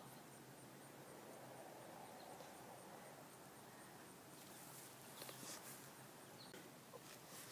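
Near silence: faint room tone with a low steady hum, and a few soft clicks in the second half.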